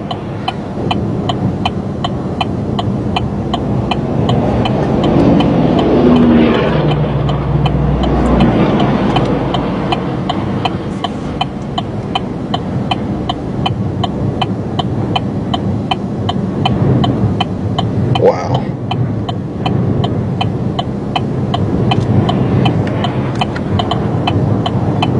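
Strong wind rushing and gusting in a dense, surging noise, with a steady ticking about twice a second under it.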